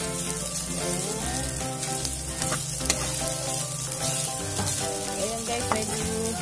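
Chopped chicken gizzards, liver and onion sizzling in a frying pan over high heat while a metal spatula stirs them, with a few sharp clicks of the spatula against the pan. Music plays in the background.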